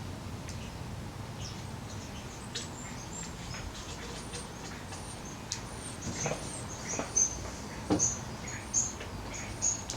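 Short, high bird-like chirps repeating every half second or so, louder in the second half, with a few soft knocks among them.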